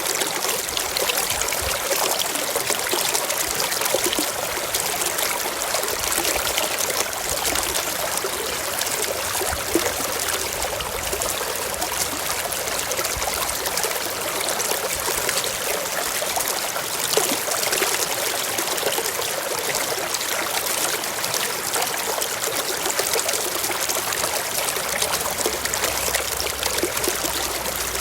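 Forest stream flowing steadily over rocks, a continuous babble and trickle of water.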